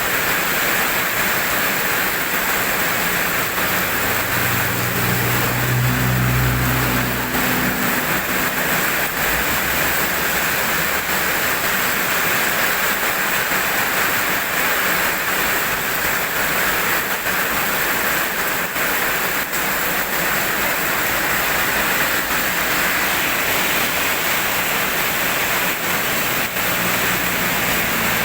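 Steady, even hiss of rain falling, with a brief low rumble about five seconds in.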